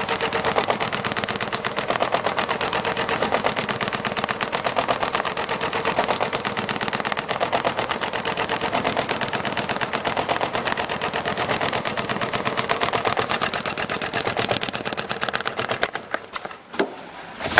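Richpeace computerised pattern sewing machine stitching leather at high speed, a rapid, even rattle of needle strokes. The machine stops near the end, leaving a few separate clicks.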